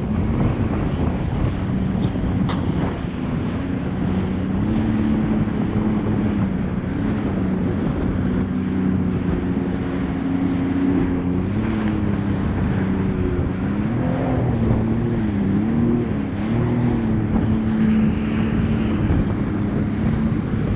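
Jet ski engine running under way, its pitch shifting up and down with the throttle and wavering quickly a few times about two-thirds of the way through, with wind buffeting the microphone.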